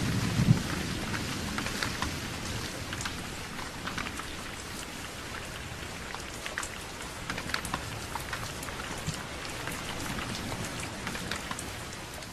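Steady rain falling, with many separate drops striking close by, and a brief low rumble at the very start.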